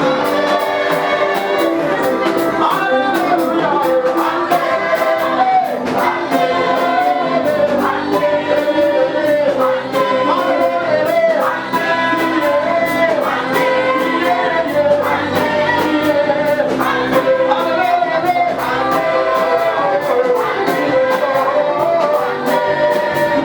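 Gospel praise music: singing voices over a band with a steady drum beat.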